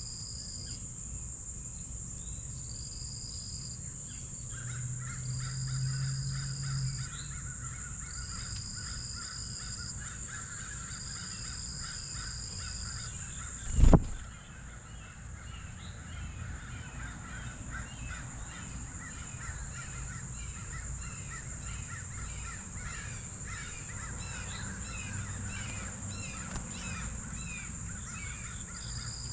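Harsh, caw-like bird calls over a steady insect chorus: a continuous high whine and high pulsing trills repeating about every two seconds. One sharp knock about fourteen seconds in is the loudest sound.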